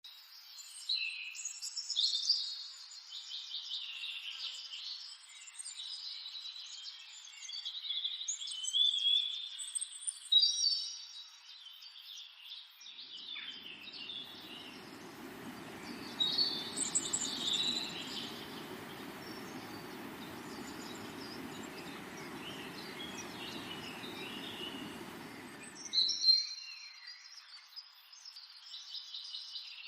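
Several birds chirping and calling with short high twitters and trills, overlapping one another. Partway through, a steady rushing noise comes in suddenly beneath the birdsong and stops just as suddenly near the end.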